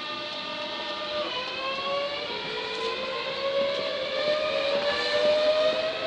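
Electric train's traction motors whining, a chord of tones that steps down about a second in and then climbs slowly and steadily in pitch as the train accelerates, growing louder toward the end.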